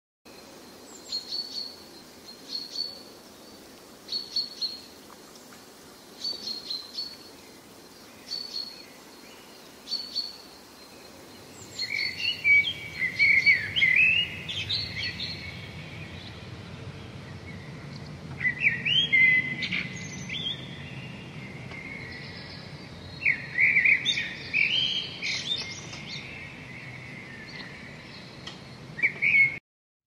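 Birds chirping and singing. A short high call repeats about once a second, then from about twelve seconds in louder, varied song phrases join it over a low steady background noise. It cuts off just before the end.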